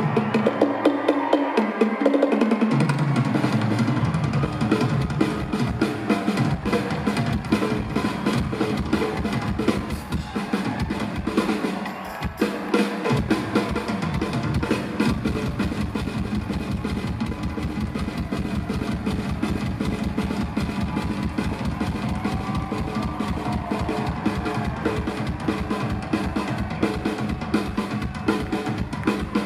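Live rock band playing an instrumental passage led by the drum kit: fast snare rolls over a steady bass drum, with no vocals.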